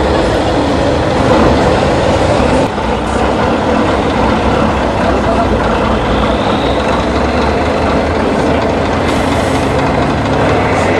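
Diesel engine of an Iveco truck-trial truck running hard on an off-road course, loud and continuous, with a brief dip in loudness about two and a half seconds in.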